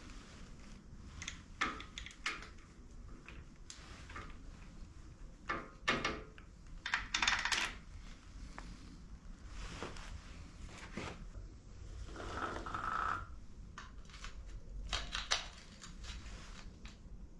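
Tools and metal parts clinking and knocking as they are handled during motorcycle rear suspension work, in irregular clusters, with a brief ringing tone about twelve seconds in.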